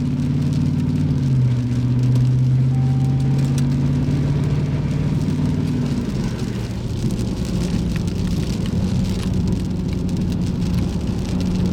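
Car engine running with road noise, heard from inside the vehicle; the engine's hum steps up in pitch about a second in and changes again around six seconds, with a steady hiss building in the second half.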